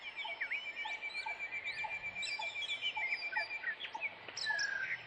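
Several birds calling at once: a rapid high trill for about three and a half seconds over a steady series of short, lower repeated notes, with scattered swooping calls.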